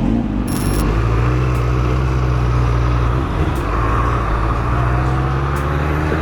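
Suzuki GSX-R 750 inline-four engine running on the move at fairly steady revs, dipping briefly about three seconds in, with wind noise over it.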